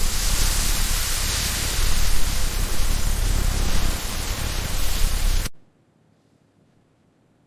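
Loud, steady hissing noise with no tone in it, cutting off abruptly about five and a half seconds in, followed by near silence.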